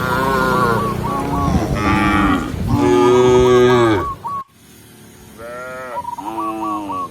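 Cattle mooing, a run of calls one after another. The calls are loud for the first four seconds, then break off suddenly, and two quieter moos follow.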